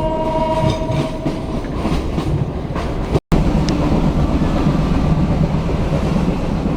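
Diesel locomotive horn holding a two-note chord that ends about a second in, over the steady rumble and clatter of a passenger train running on the rails. The sound drops out for an instant about three seconds in.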